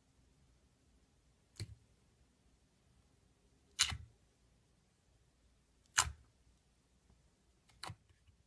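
Four sharp clicks or knocks about two seconds apart, the middle two the loudest, against a quiet background.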